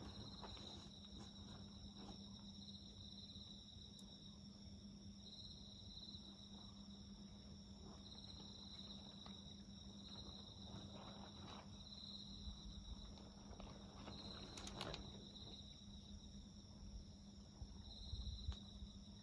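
Faint insect song, crickets trilling in repeating pulses at a high, steady pitch, over the small scattered crackles of a wood fire, with one louder burst of crackling about three-quarters of the way through. A low steady hum and a low rumble near the end lie underneath.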